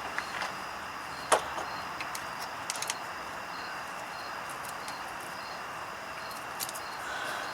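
Metal hand tools clinking as they are handled: one sharp click about a second in, a quick run of three clicks near three seconds, and another near the end, over a steady background hiss with a faint, regular high-pitched pulsing.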